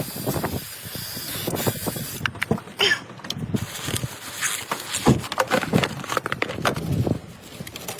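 Irregular clinks, knocks and scrapes of tools and metal parts being handled while working on a car.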